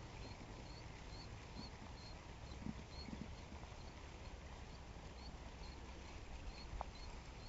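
Fishing reel being cranked on a slow retrieve, a faint, even ticking about twice a second over a low wind rumble.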